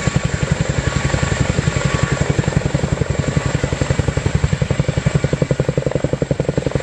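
Boeing Chinook HC6 tandem-rotor helicopter in flight, its two three-bladed rotors beating in a fast, even, continuous thudding.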